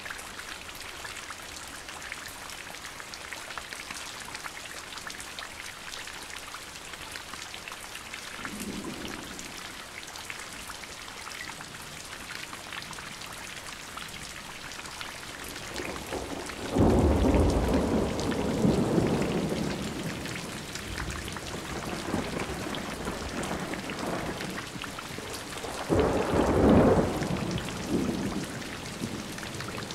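Steady rain falling throughout, with a faint rumble of thunder about nine seconds in, a loud crack of thunder at about seventeen seconds that rolls on for several seconds, and another loud peal near the end.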